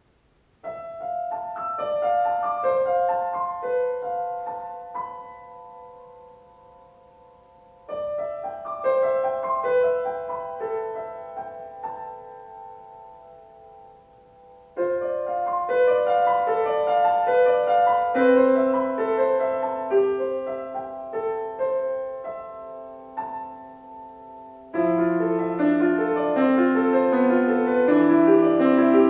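Solo acoustic piano playing in four phrases, each starting with a loud entry and fading away, the last one fuller with added low bass notes.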